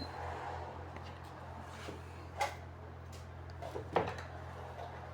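A few short knocks and clicks from handling the air conditioner unit, the two loudest about two and a half and four seconds in, over a steady low hum.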